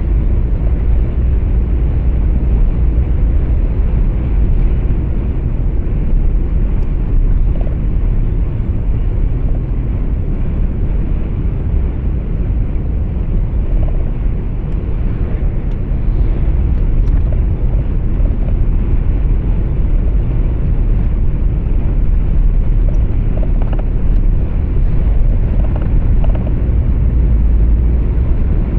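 Steady low rumble of engine and road noise heard inside a moving truck's cab, with no sharp events.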